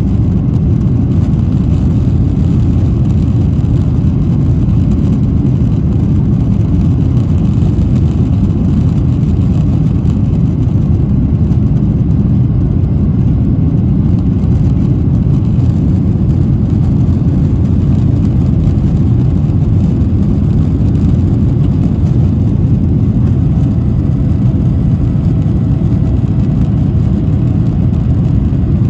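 Steady, loud engine and air noise inside the cabin of a Boeing 737-800, its CFM56-7B jet engines running under the wing, heard from a window seat. A faint steady tone joins in near the end.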